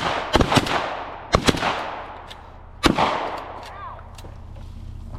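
A burst of gunshots from hunting guns during a grouse hunt: several sharp reports in quick succession over the first three seconds, each echoing away.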